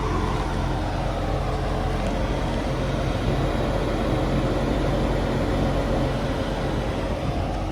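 1992 Chevrolet Corvette's 5.7-litre V8 idling steadily and smoothly.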